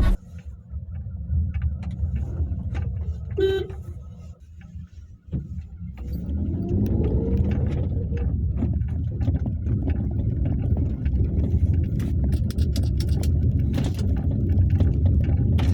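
Car engine running, quiet at first, with a brief beep a few seconds in. About six seconds in the engine note rises as the car revs and pulls away, then settles into steady driving rumble with scattered knocks and clicks.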